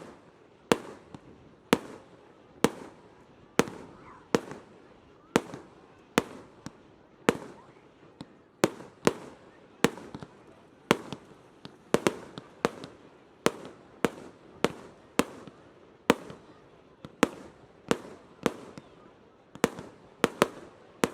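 Aerial fireworks shells bursting in a rapid, steady run of sharp bangs, more than one a second, each trailing off in a short echo.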